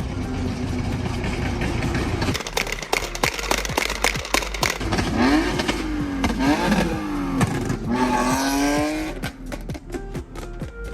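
A car engine revving hard, its pitch rising and falling several times, with many sharp crackles and pops starting about two seconds in. Background music fills the first couple of seconds.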